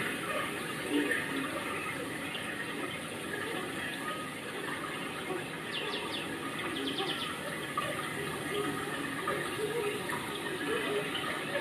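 Steady rain falling and water running. A few brief high chirps come around the middle.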